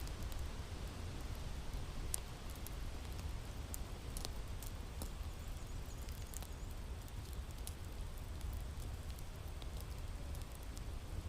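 Wood fire crackling in a fireplace: a steady low rumble and hiss with scattered sharp pops and snaps every second or so.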